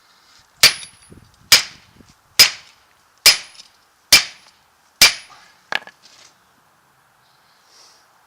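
Hammer blows on a truck driveshaft yoke, knocking out the old U-joint: six sharp metal strikes just under a second apart, some ringing briefly, then a lighter tap.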